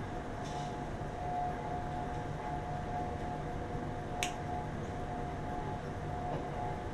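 A steady mechanical hum carrying a constant whining tone, with a single sharp click about four seconds in.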